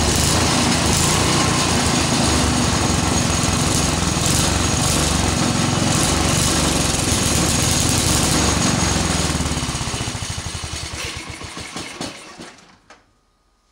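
Go-kart's single-cylinder engine running steadily, then shut off about nine seconds in: the firing slows into separate pulses and the engine coasts to a stop over about four seconds.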